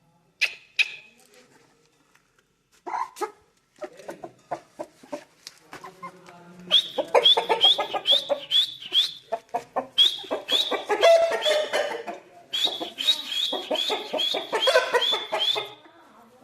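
Aseel chickens clucking. It starts with a few sharp, separate calls, then comes in three long runs of fast repeated clucks, several a second.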